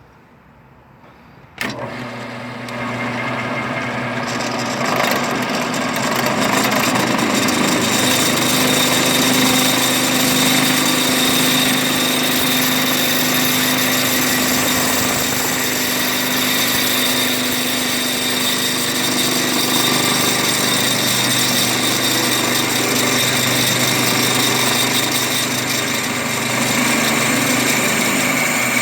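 A power tool starts suddenly about two seconds in, comes up to speed over the next couple of seconds, then runs steadily and loudly for the rest of the time, with a steady hum under a bright hiss, while steel is being fabricated.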